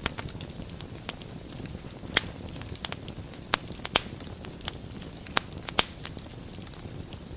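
Wood fire burning in a fireplace: a steady low rumble of flames with light crackling and several sharp pops of burning wood between about two and six seconds in.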